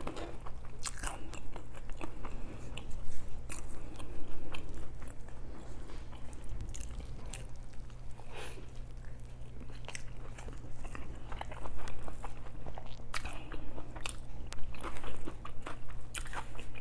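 Close-miked eating sounds: biting and chewing fast food, with irregular crunchy and wet mouth clicks.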